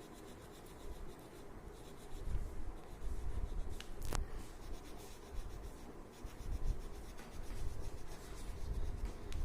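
Red crayon scratching and rubbing on paper in short, irregular strokes while colouring in a drawing, with one sharp click about four seconds in.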